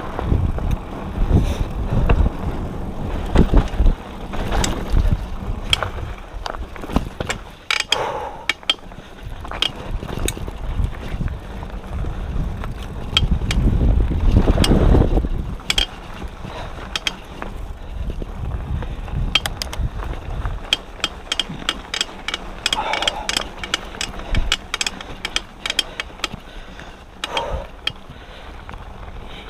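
Diamondback Line hardtail mountain bike ridden down a dirt trail: its drivetrain and rear hub rattle and tick over bumps, with tyre and wind rumble that is heavy in the first half and eases off about halfway through.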